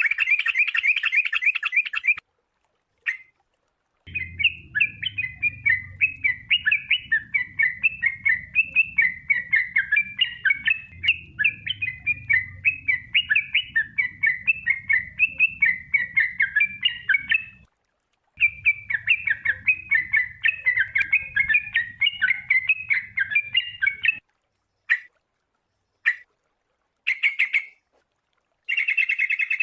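Sooty-headed bulbul (kutilang) singing: quick, chattering runs of bright chirping notes. They come in several stretches that start and stop abruptly with dead silence between, a long stretch in the middle and short bursts near the end.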